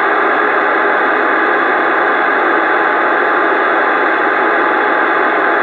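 Steady, loud rush of static hiss from a CB radio receiver, with no voice on it.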